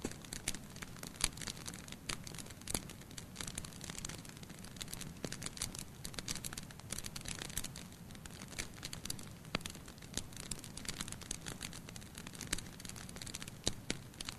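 Wood fire burning in a fireplace, crackling and popping with frequent irregular sharp snaps over a low steady rumble of flame.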